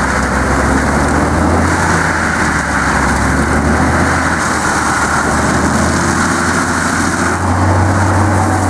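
Heavy machine's engine running steadily: a deep drone under a noisy mechanical wash, the drone stepping up slightly in pitch about seven seconds in.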